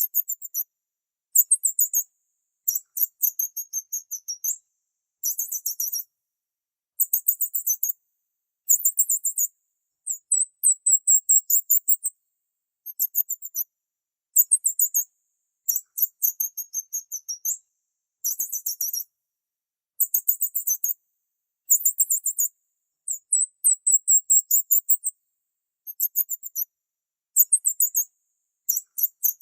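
Small bird chirping very high-pitched, in bursts of rapid chirps about a second long, repeated again and again with short silent gaps between them.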